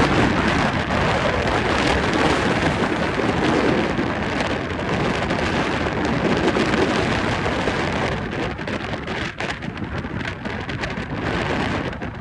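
A steady, loud rush of strong wind on the microphone, mixed with the roar of a landing jet airliner in a snowstorm. From about eight seconds in, the rush thins into rapid crackling gusts.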